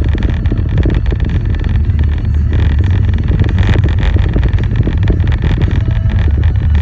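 Vehicle travelling on the road: a steady, loud low rumble of engine, tyre and wind noise with a constant crackle over it.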